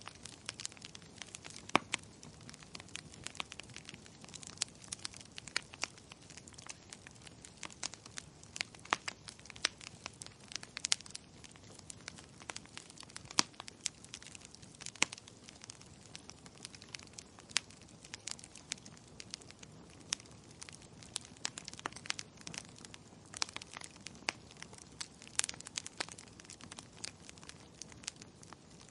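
Wood fire crackling and popping in a fireplace: frequent sharp irregular pops over a soft low hiss of burning.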